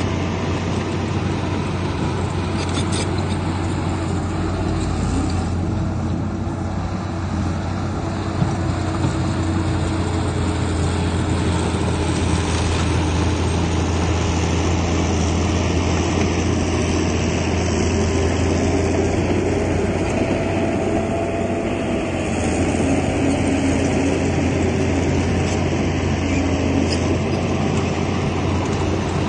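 Heavy diesel earthmoving machinery running steadily under load, with a deep, constant engine hum. A single short knock sounds about eight seconds in.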